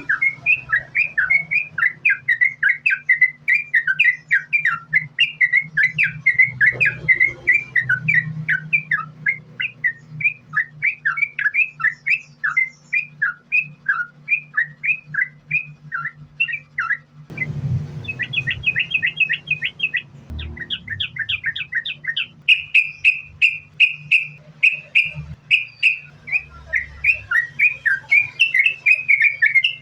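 Yellow-vented bulbul (trucukan) singing a continuous rapid string of short chirping notes, the unbroken 'ropel' run prized by keepers, over a low steady hum. About two-thirds of the way through there is a brief rustle, after which the notes come quicker and a little higher.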